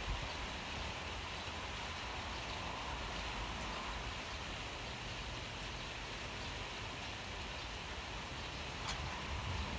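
Steady rain falling, an even hiss with a low rumble underneath and a single sharp tick near the end.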